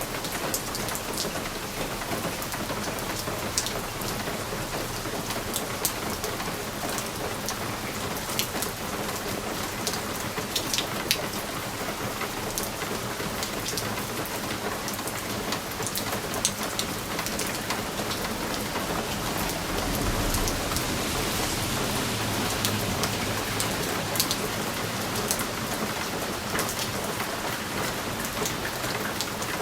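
Steady rain pattering on window glass, with many sharp drop ticks over an even hiss. A low rumble swells about two-thirds of the way in and fades a few seconds later.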